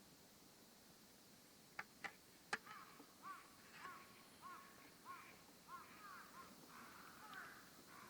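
Three sharp clicks about two seconds in, then a bird calling faintly with short, repeated rising-and-falling notes, roughly two a second, until near the end.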